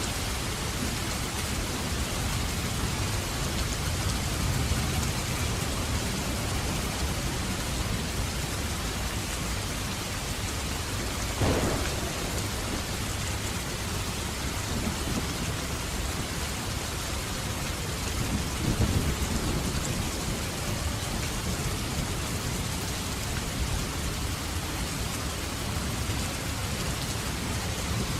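Steady heavy rain with low rolling thunder: a sharp crack of thunder about eleven seconds in and a louder rumble a few seconds later.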